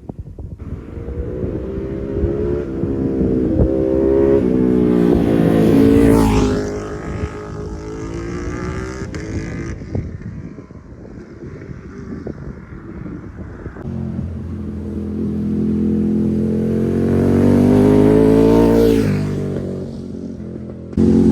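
Ducati Panigale V2's L-twin engine through a full titanium exhaust, passing by twice. The engine note climbs to its loudest about six seconds in, then drops in pitch as the bike goes past. A second pass builds from about fourteen seconds and falls away near nineteen seconds.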